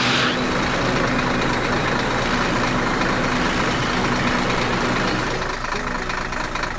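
Heavy vehicle engine sound effect running steadily, of the kind used for animated construction machines.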